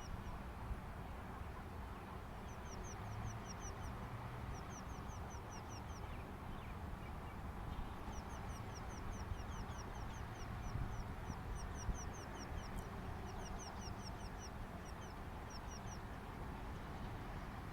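A small bird singing: quick runs of high, down-slurred notes, six to eight to a run, repeated again and again with short pauses between runs. A steady low background hiss runs underneath.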